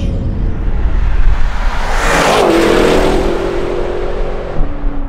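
V8 performance car engine, heard first from inside the cabin, then driving past at speed: the sound swells and drops in pitch as the car passes about two seconds in, then holds a steady note as it pulls away.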